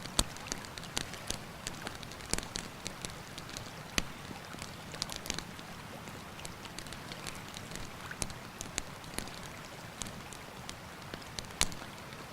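Campfire crackling, with frequent irregular sharp pops, the loudest just after the start, about four seconds in and near the end, over the steady rush of a mountain river.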